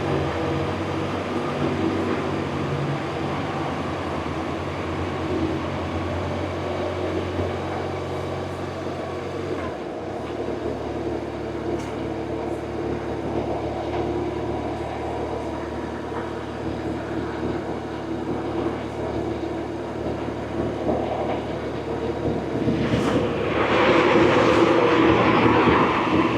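BMW R1100RT's air/oil-cooled boxer twin running while the motorcycle is ridden, with road and wind noise. About ten seconds in the low engine note changes, and near the end a louder rush of wind and road noise comes in.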